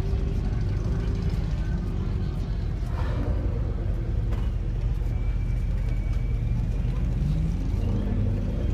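Car engine idling with a steady low rumble, with faint voices around it.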